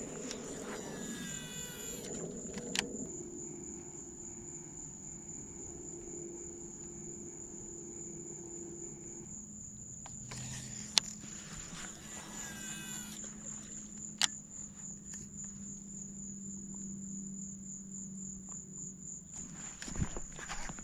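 An insect trilling steadily at a high pitch in rapid pulses, with a few sharp clicks and short chirping calls over it.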